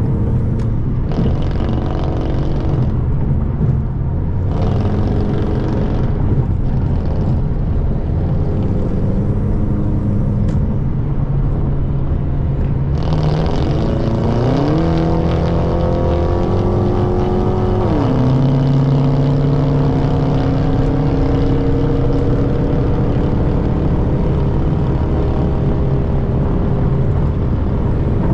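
Car engine and road noise at highway speed, the engine note climbing in pitch about halfway through, holding for a few seconds, then dropping sharply as the revs fall.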